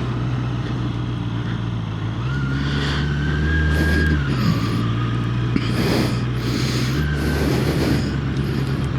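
Honda CBR650R's inline-four engine running under way. Its note rises about two seconds in, holds, and drops back near four seconds, then rises again about seven seconds in. A few brief bursts of hiss pass over it.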